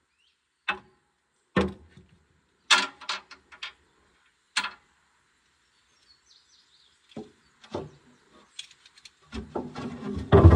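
Scattered knocks and clanks of hand tools and parts being handled during a skid steer teardown, with near silence between them, turning into a busier clatter near the end.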